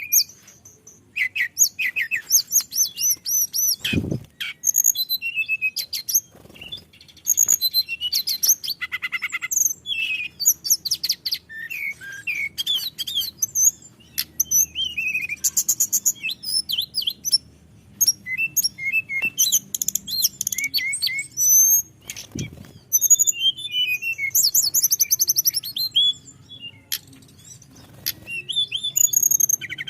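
A tledekan gunung songbird singing a long, continuous rolling song of rapid high trills, whistled slurs and chattering notes, with only short breaks. Two brief low thumps come about 4 seconds in and again about two-thirds of the way through.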